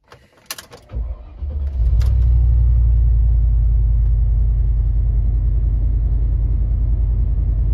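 Range Rover P38 engine starting after the car has stood for a few days: a few clicks, the starter cranking for under a second, then the engine catching about two seconds in and settling into a steady low idle.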